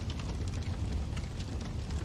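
Wood fire burning in a fireplace: a steady low rumble of flames with irregular crackles and pops.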